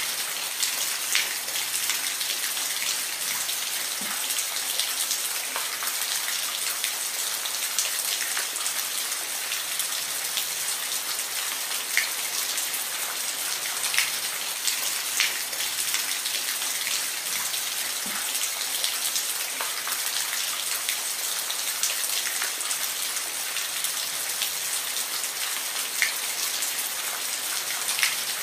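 Steady rain falling, an even hiss with separate drops striking close by every few seconds as sharp little taps.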